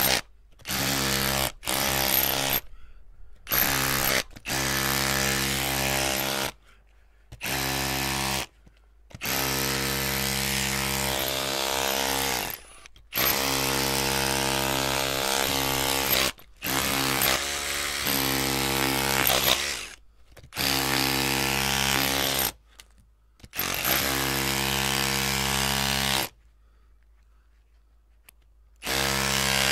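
Electric drill motor whirring in repeated bursts of about one to three and a half seconds, stopping and starting as the trigger is pulled and released, with a longer pause near the end.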